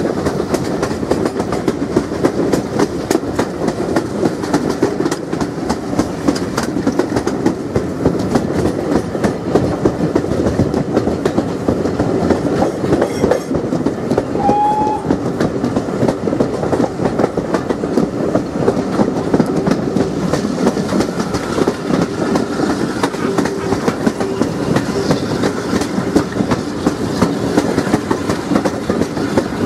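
Coaches of a steam-hauled passenger train running at speed, heard at an open carriage window: a steady rumble with the wheels clattering on the rails. A short high tone sounds once about halfway through.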